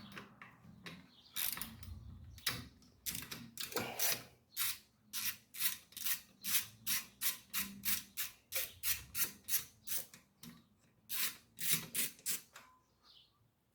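Socket ratchet wrench clicking in a steady run of about three clicks a second while a small bolt is worked loose, with scattered clicks and knocks before and after.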